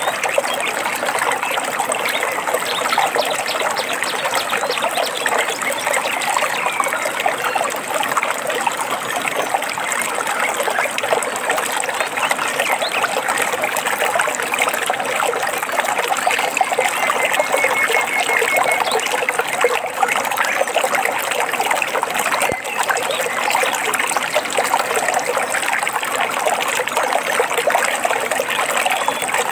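Shallow stream trickling and babbling over stones in a steady, continuous flow.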